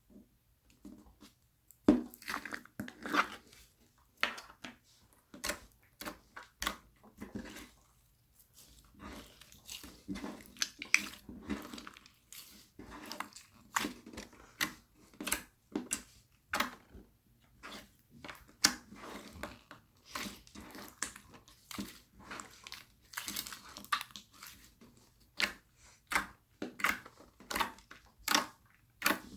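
Slime being mixed and squished by hand, with a stream of irregular wet pops and crackles, several a second, as air pockets in the slime burst.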